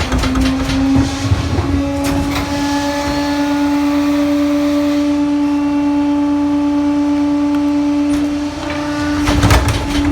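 Pak-Mor rear-loader garbage truck running its packing cycle: a steady whine that rises slightly at the start and is held for about eight seconds as the engine and hydraulics work under load. Clattering and knocks come at the start and again near the end.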